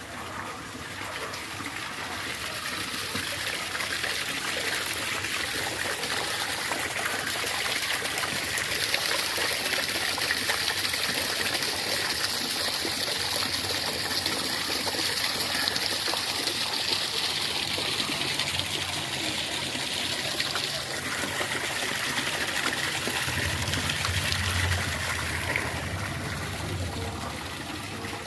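Water trickling and flowing steadily in a roadside rainwater drain, a little louder through the middle.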